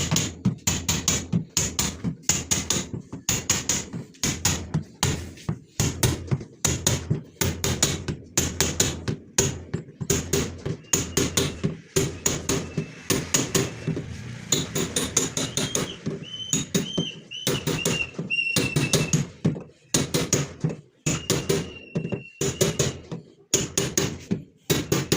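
Repeated hammer blows, about two to three a second, with a metallic ring on some strokes.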